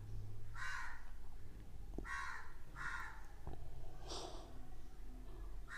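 Colouring strokes scratching on paper: about five short, separate rubs spread across the few seconds, with a couple of small clicks between them.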